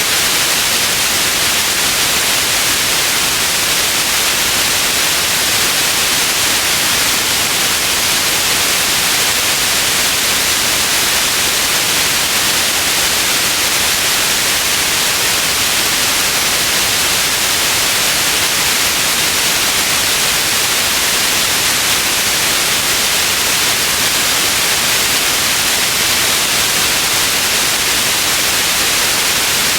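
Steady white noise: a constant, even hiss with most of its energy in the upper range, unchanging throughout.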